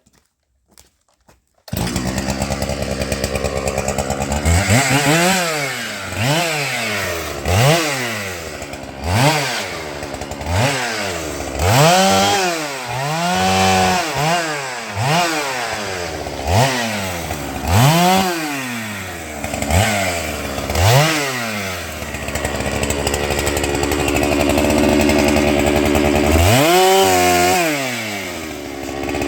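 Holzfforma 395XP chainsaw, a big 94 cc two-stroke, cutting in suddenly about two seconds in and being revved again and again. Each rev rises in pitch and falls back, about one every second and a half. Near the end it is held at high revs for a few seconds, then revved once more.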